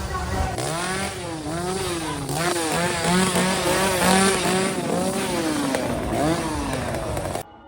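Chainsaw revving over and over, its pitch rising and falling with each blip of the throttle. It cuts off abruptly near the end.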